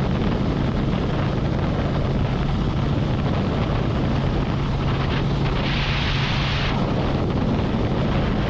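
Harley-Davidson Road Glide's V-twin engine running at cruising speed with steady wind and road noise on the riding microphone; a brief louder hiss lasts about a second past the middle.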